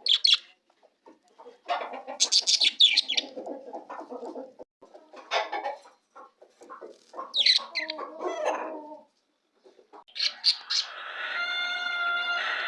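Budgerigars chirping and chattering in several short bursts, with gaps between. Near the end a steadier, evenly pitched call or tone sets in.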